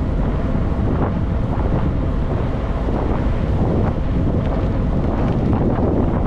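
Steady wind noise buffeting the microphone of a camera riding on a moving e-bike, a constant low rumble.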